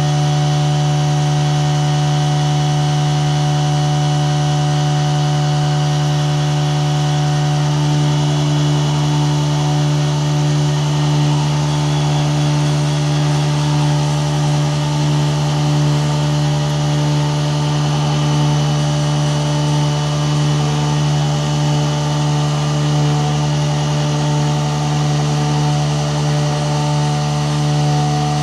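A CNC mill's spindle runs loud and steady at high speed while the cutter mills the aluminium face of a Predator 212 Hemi cylinder head. About eight seconds in the cut's tone thickens and starts to waver, as the cutter takes more of the head.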